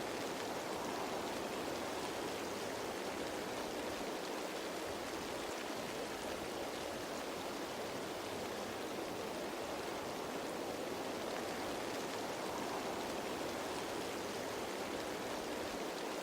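Steady rain falling on leaves, an even hiss of many drops with no distinct single hits.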